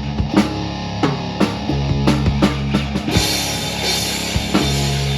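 Live rock band playing an instrumental passage: distorted guitar and bass holding low chords while the drum kit hits, with cymbals coming in about three seconds in.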